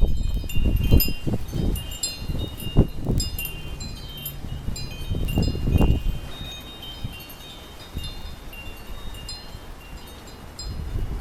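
Wind chimes ringing constantly and irregularly as a windstorm swings them. Gusts of wind buffet the microphone with a low rumble, strongest in the first six seconds and easing after.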